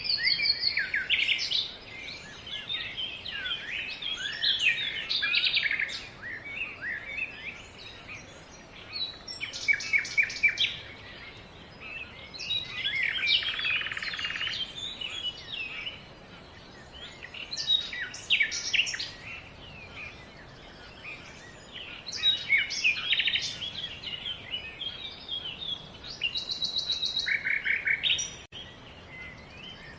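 Songbirds singing in repeated phrases of chirps, quick trills and sweeping notes, each phrase a second or two long, with short pauses between, over a faint steady background hiss.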